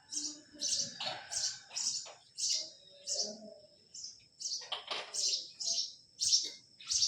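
A small bird chirping over and over, short high chirps about two a second.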